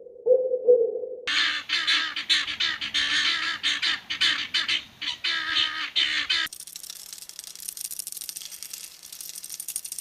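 A flock of birds calling noisily all at once, many overlapping squawks and honks, cutting off suddenly after about five seconds into a quieter steady hiss. It is preceded by about a second of a pulsing electronic-sounding tone.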